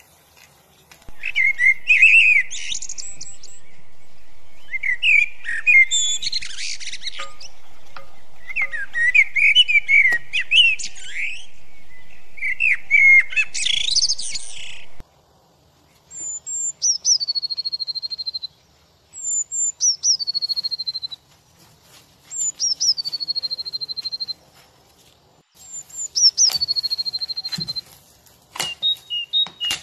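Birds singing: bursts of busy, chirping warbles over a steady hiss for the first half, then four evenly spaced calls, each dropping quickly from a high note into a held whistle about two seconds long.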